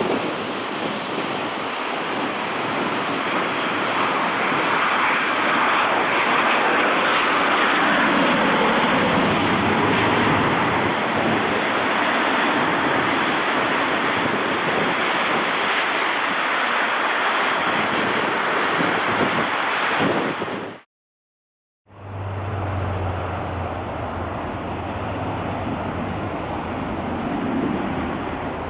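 Jet airliner engines running, a loud steady roar with a faint high whine in it. It cuts out abruptly about three-quarters of the way through, then comes back as a quieter rush over a steady low hum.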